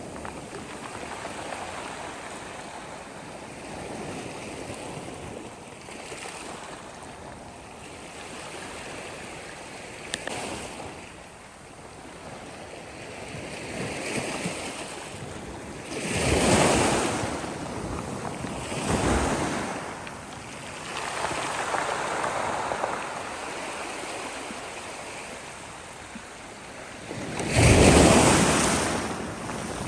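Sea waves washing onto the shore, swelling and ebbing, with a louder wave about halfway through and the loudest one near the end.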